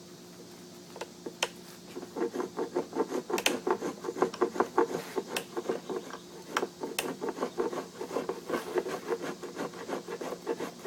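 A hand tool scraping wood in quick repeated strokes, about four or five a second, starting about two seconds in after a couple of light clicks.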